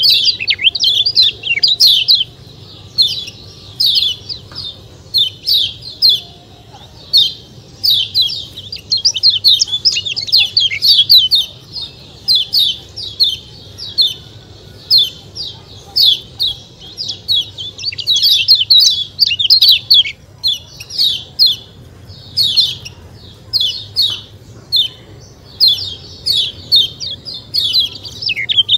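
Kecial kuning, a yellow white-eye, singing: quick runs of high chirping notes in short bursts, one after another without a break, over a faint low hum.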